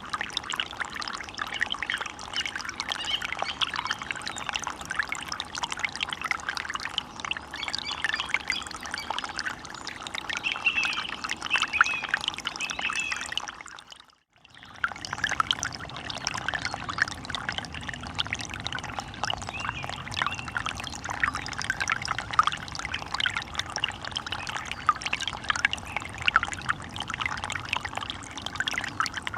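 Water running and splashing steadily, with bird calls over it, most clearly a little before halfway. About halfway through, the sound fades out almost to silence and comes straight back.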